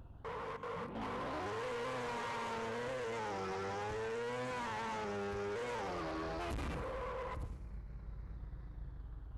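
Kawasaki Ninja ZX-10R's inline-four engine held at high revs, its pitch rising and falling with the throttle through the middle. About seven seconds in it drops back to a low rumble.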